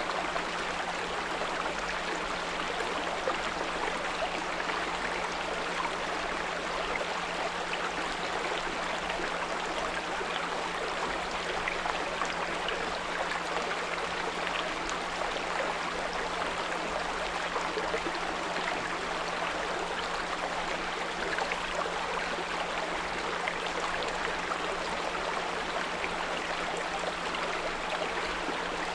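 A small brook flowing over stones, a steady babbling rush, with a constant 174 Hz pure tone humming underneath.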